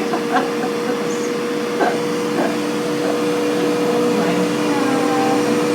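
Steady motor hum of a Carebidet automatic excretion-care bidet unit in operation, two constant tones over an even whirring noise.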